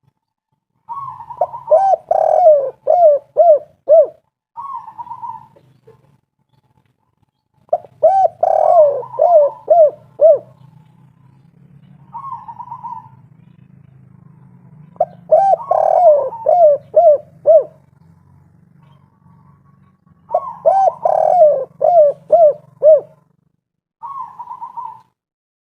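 Spotted dove (tekukur/derkuku) cooing its 'kuk 3' song: four phrases a few seconds apart, each a quick run of arched coos, followed by a short higher note.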